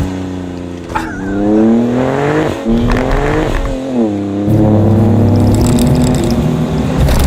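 The 2017 Ford Raptor's 3.5-liter twin-turbo EcoBoost V6 revving hard. Its pitch climbs for a couple of seconds, falls away about four seconds in, then holds steady under load.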